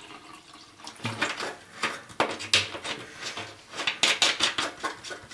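Things being handled and packed by hand: an irregular run of knocks, clicks and rustles, busiest about a second in and again around four seconds in.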